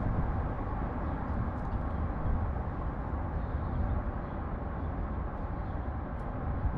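Steady low rumble of city traffic, with a few faint high ticks over it.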